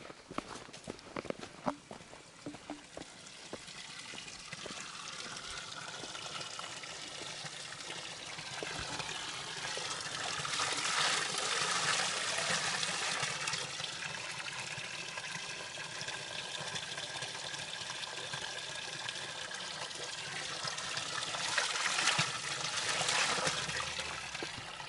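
Spring water trickling and pouring into a container as water is refilled, with a few clicks and knocks at the start. The flow swells louder twice, about halfway through and near the end.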